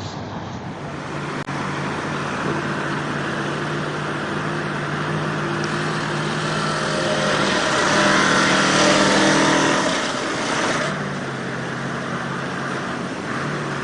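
A motor vehicle's engine running steadily, then revving harder for a few seconds around the middle, with a rising hiss that peaks and then drops back as the engine settles.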